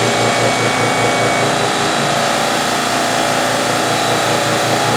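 Steady running of a hobby CNC mill together with a shop air compressor, with a low pulsing of about five beats a second underneath.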